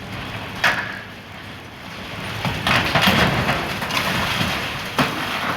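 Building demolition: debris crashing and crunching as a demolition machine tears at the structure, with a sharp clank about a second in and another near the end.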